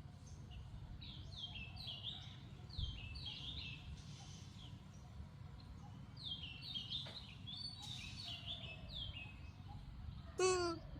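Birds chirping in repeated runs of short, high, falling notes over a low steady outdoor rumble, with one brief, louder call near the end.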